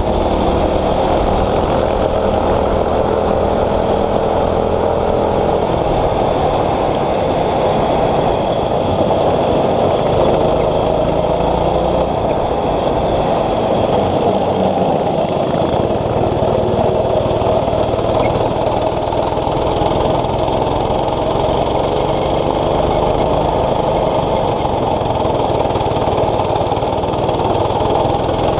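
A 6.5 hp kart engine running under racing load, its pitch rising and falling with the throttle.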